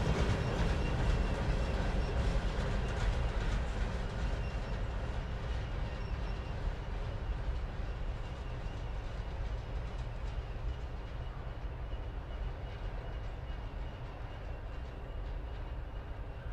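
Norfolk Southern freight train rolling by with a low rumble and wheel noise that fade steadily as it draws away.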